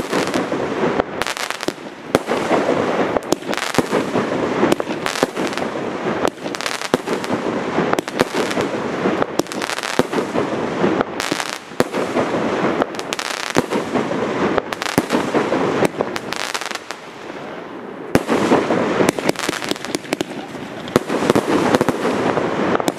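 Category 4 fireworks display: many shell bursts and bangs in quick succession, easing briefly about three-quarters of the way through before picking up again.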